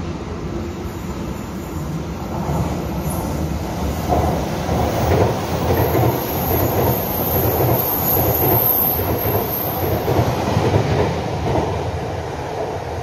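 Taiwan Railway electric express train running through the station past the platform without stopping: the rumble of wheels on the rails builds, is loudest for several seconds as the cars go by, then fades. A thin high steady whine sounds in the middle of the pass.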